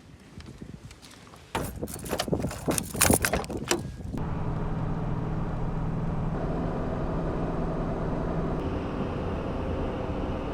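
A few clicks and knocks, then from about four seconds in the steady engine and road noise of a Toyota Tacoma pickup driving, heard from inside the cab.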